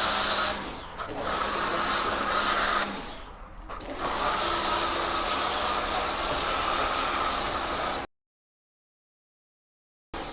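Kärcher K2 electric pressure washer running and spraying: a steady hiss of water with a motor hum, dipping twice briefly. It cuts off abruptly to dead silence for the last couple of seconds.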